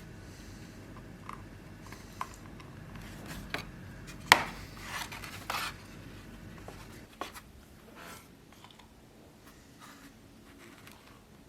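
Small handling sounds: scattered sharp clicks and knocks with a few short scrapes, the loudest a sharp click about four seconds in. A low hum stops about seven seconds in.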